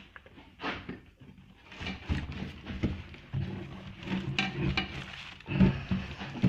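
Cardboard box and packaging being handled: rustling, scraping and irregular knocks, with a louder knock near the end.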